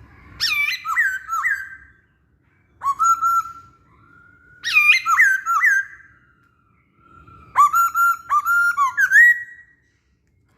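Masked laughingthrush (poksay Hongkong) singing loud, clear whistled phrases of swooping notes, four bursts of song separated by short pauses.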